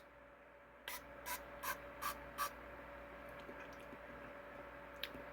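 Five quick, faint pumps of a small candy spray bottle's pump nozzle, each a short sharp spritz, about 0.4 s apart.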